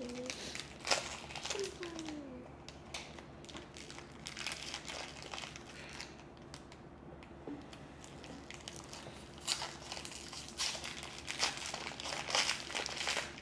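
Blind-box packaging crinkling in irregular crackles as it is opened and handled, sparse through the middle and busier in the last few seconds.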